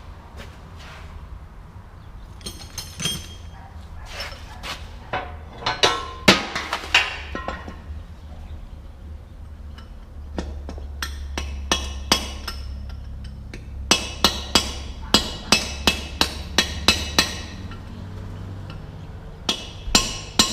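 Hammer blows on metal: scattered clinks and knocks at first, then a quick run of about ten ringing strikes, about three a second, and another run starting near the end.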